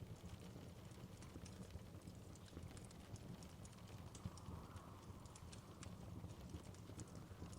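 Faint wood fire crackling in a fireplace: many small, irregular snaps and pops over a low, steady rumble.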